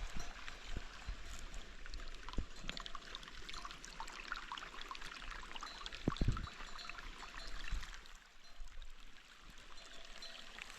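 Water running and splashing in a steady patter, with a couple of dull low thumps about two and six seconds in.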